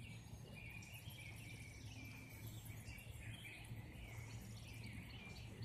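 Many birds giving short, faint chirping calls over and over, over a faint steady low background hum.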